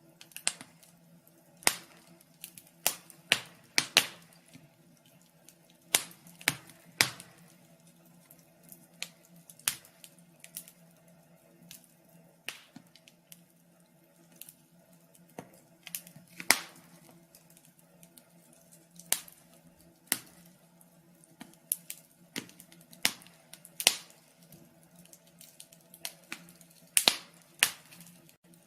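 Fire crackling: irregular sharp pops and snaps, a few every second or two, over a faint steady low hum.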